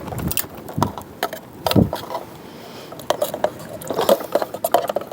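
Irregular clicks, knocks and scraping of cooking utensils and containers being handled.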